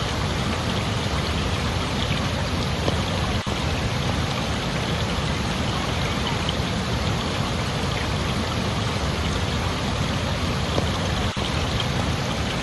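Steady rushing water, a dense even hiss of flowing or falling water with no change in level.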